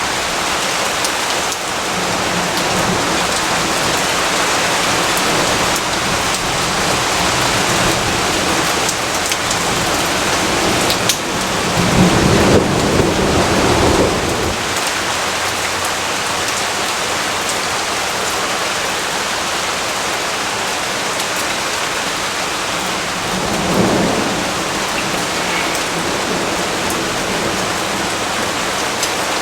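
Steady rainfall, with a low roll of thunder about eleven seconds in lasting a few seconds, and a shorter, fainter rumble a little past the middle.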